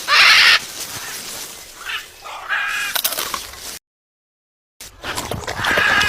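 Macaw giving harsh squawks: a loud one right at the start, a shorter call before the middle, and another near the end, with a second of dead silence where the audio is cut.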